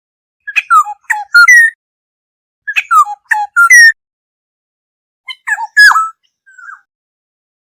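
Black-hooded oriole singing short fluty whistled phrases: the same phrase twice, about two seconds apart, then a different phrase near the end.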